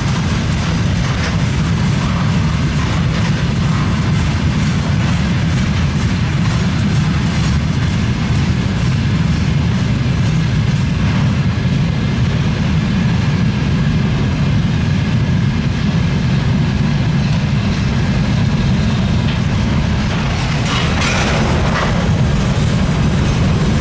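Freight train wagons rolling past with a steady low rumble and faint clicks of wheels over the rail joints. A brief, brighter clatter comes near the end.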